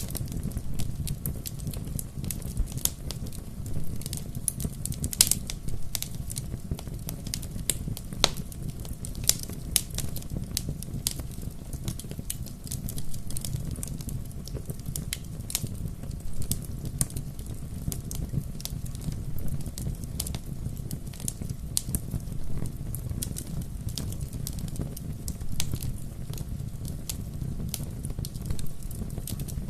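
Wood fire crackling: a steady low rumble of burning with irregular sharp pops and snaps, a few louder pops among them.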